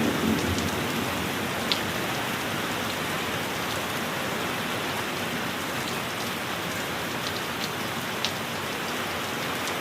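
Steady heavy rain hissing, with a few sharp single drops landing about two seconds in and again about eight seconds in.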